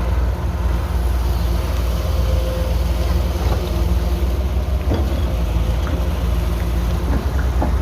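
Heavy diesel engine of construction machinery running steadily with a low drone, with a couple of short metallic knocks about five seconds in and near the end.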